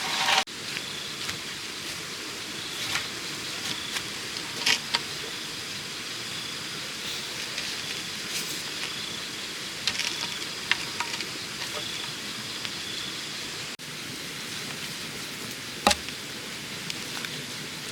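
Outdoor ambience: a steady hiss with a faint high chirping tone that comes and goes, and scattered light knocks and clicks, one sharper knock near the end.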